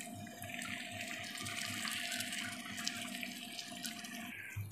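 Fried onion-and-spice masala sizzling in hot oil in a pan as whisked yogurt is added and stirred in with a wooden spatula, with scattered small crackles. The sizzle dies away near the end, over a steady low hum.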